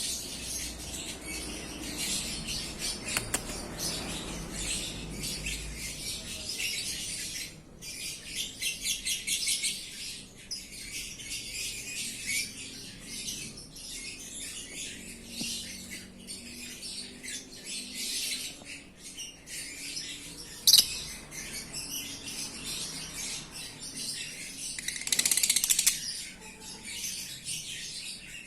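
Lovebirds chattering: continuous rapid, high-pitched chirps and squeaks, with one sharp click about two-thirds of the way through and a louder burst of chatter near the end.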